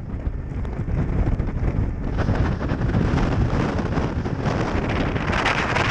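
Strong storm wind buffeting the microphone in a steady low rumble, with a hiss that grows louder about two seconds in and again near the end.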